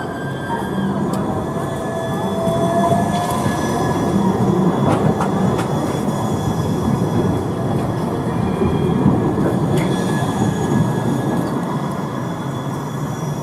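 Tram running close by on its rails: a heavy rolling rumble with thin, steady high-pitched wheel squeal over it, growing louder toward the middle and easing a little near the end.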